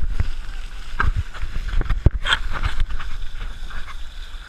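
Wind rumbling on the microphone and water noise around a canoe out on surf waves, with a few short knocks and a brief splash-like burst about two seconds in.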